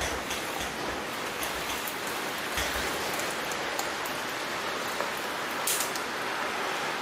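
Heavy typhoon rain falling steadily, with scattered sharp taps of drops striking a surface.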